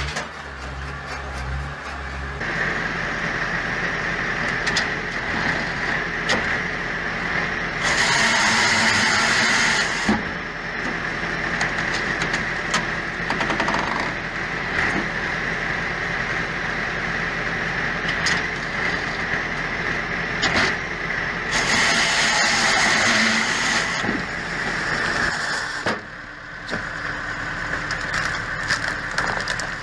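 Machinery running with a steady high whine. A louder rushing noise surges twice, and clicks and knocks are scattered throughout.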